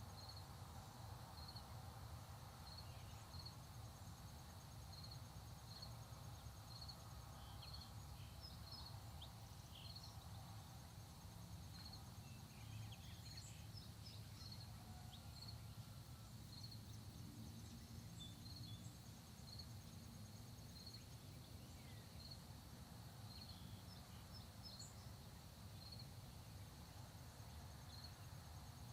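Faint rural outdoor ambience: insects keep up a continuous high trill and short chirps repeating evenly about once a second, over a constant low rumble. A few brief, scattered bird calls come through in the middle and again about five seconds before the end.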